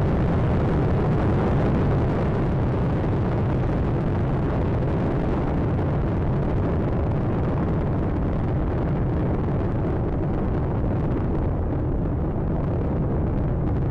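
Space Shuttle Atlantis's solid rocket boosters and three main engines during ascent: a steady, dense low rumble, with the upper crackle thinning slightly toward the end.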